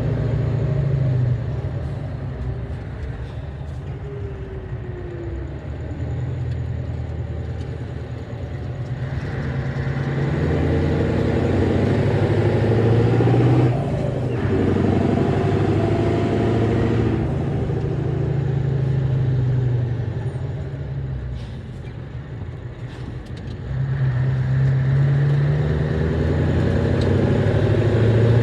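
Scania 142 truck's V8 diesel engine running on the road, its note dropping away and picking up again several times as the throttle comes off and goes back on.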